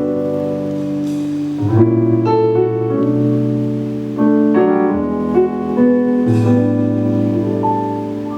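Piano playing a slow song intro: sustained chords, with new chords struck several times and left to ring.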